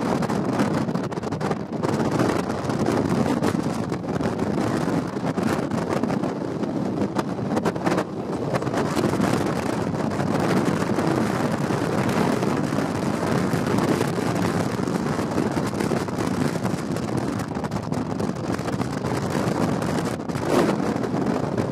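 Strong wind blowing across the microphone: a continuous rushing noise that swells and dips with the gusts.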